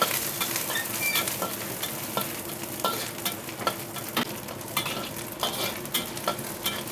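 Garlic, chilli and small dried anchovies (teri) frying in hot oil, sizzling steadily while being stirred, with frequent sharp clicks and scrapes of the spatula against the pan.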